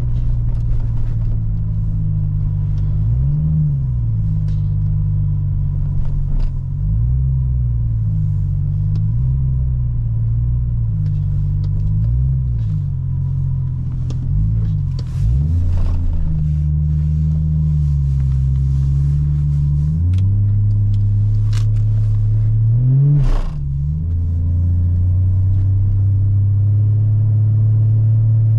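2003 Chevrolet Trailblazer's 4.2-litre inline-six engine heard from inside the cabin while driving, its pitch rising and falling several times, then holding steady near the end.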